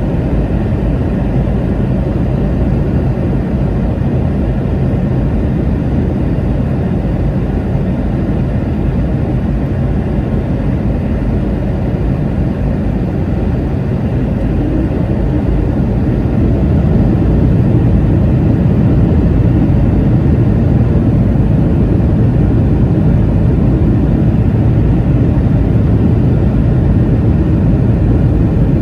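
Steady low cabin rumble of a Boeing 717 in flight, from its rear-mounted Rolls-Royce BR715 turbofans and the airflow over the fuselage. It grows a little louder about halfway through.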